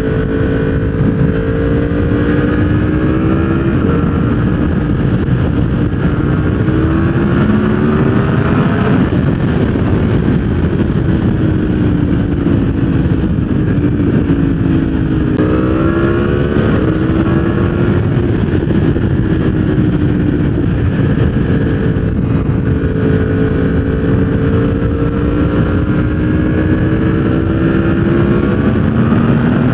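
Yamaha R1 inline-four engine running through a full exhaust system, held at a steady moderate pace while its note slowly climbs and falls with the throttle. Near 4 seconds in and again near 15 seconds in the pitch shifts suddenly.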